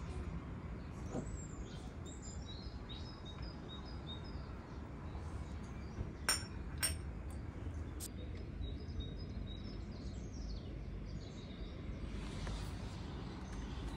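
Small birds chirping over a steady low hum, with two sharp clicks about six seconds in and another about two seconds later.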